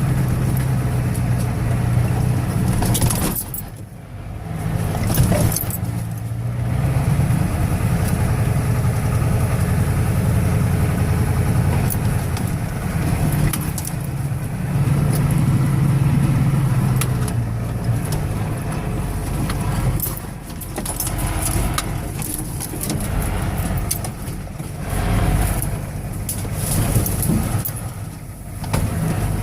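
1985 Ford truck's 6.9-litre diesel V8 running under way, its note rising and falling, with brief drops in level about four seconds in and near the end. Light clicking and jingling rattles run over the engine.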